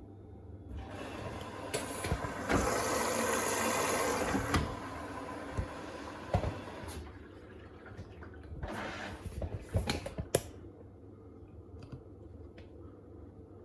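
Beko WTK104121A washing machine beginning its cycle: water rushes in through the inlet and detergent drawer, building, holding, then fading, with a second shorter rush and a few sharp clicks a few seconds later.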